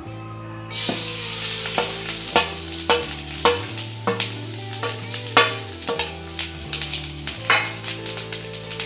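Freshly grated coconut dropped into a little hot ghee in a metal kadhai, sizzling from under a second in, with repeated sharp scrapes and knocks of a spatula stirring and roasting it. Soft instrumental music plays underneath.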